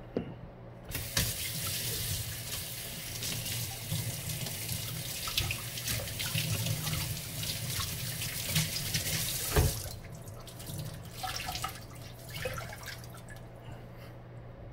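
Kitchen tap running into a sink for about nine seconds, then turned off, followed by a few light knocks.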